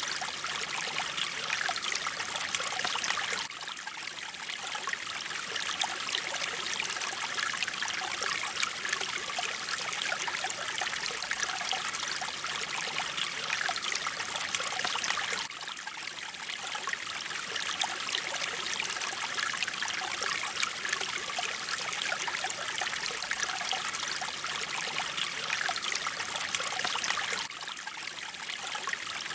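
Mountain stream water flowing and trickling over rocks, a steady splashing rush, briefly dipping in level about every twelve seconds.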